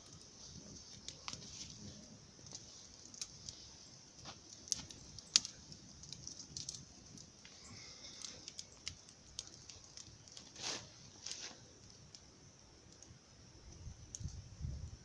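Campfire crackling, with scattered sharp pops at irregular intervals, the loudest about five seconds in.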